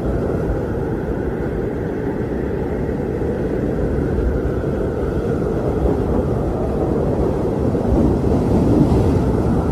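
Steady low rumbling noise with no clear pitch, swelling slightly near the end.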